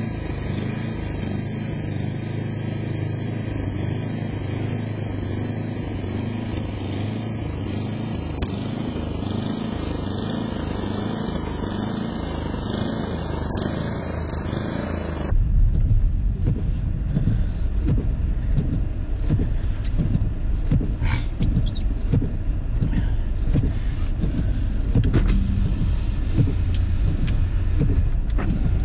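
Car driving: steady engine and road rumble heard from inside the vehicle. About fifteen seconds in, the sound changes abruptly to a louder, deeper rumble with scattered light clicks.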